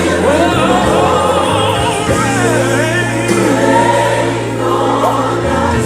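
Gospel worship music: a choir singing with band accompaniment and a steady bass.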